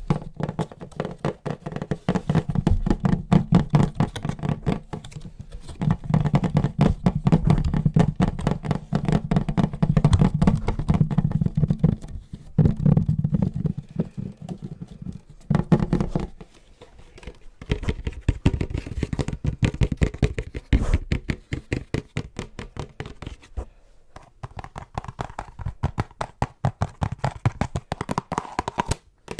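Fast tapping with the fingers on an object held close to the microphone, ASMR-style, several taps a second in long runs broken by short pauses.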